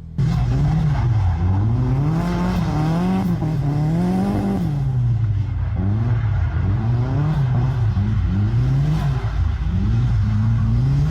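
Nissan S14 240SX drift car's engine being driven hard, its note rising and falling over and over as the throttle is worked and the revs climb and drop, with a long climb near the end.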